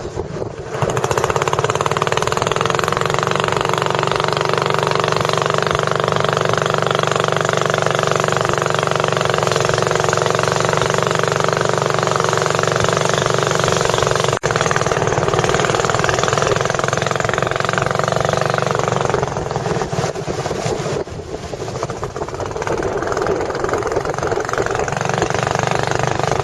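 Tourist boat's engine running steadily under way. It eases off about three quarters of the way through, then builds up again.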